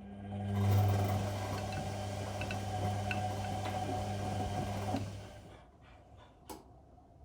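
Whirlpool Indiana 1400 washing machine's motor turning the drum for about five seconds in the wash cycle, a steady hum that starts and then winds down and stops. A single short click follows about a second and a half later.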